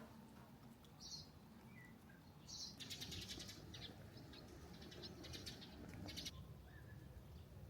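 Faint birdsong: two short high chirps, then about three seconds of rapid, repeated high trilled notes, over a faint steady background noise.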